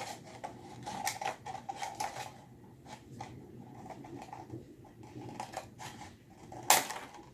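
Scissors cutting through the thin plastic of a 2-litre soda bottle: a string of short crackling snips and plastic crinkles, with the sharpest click near the end.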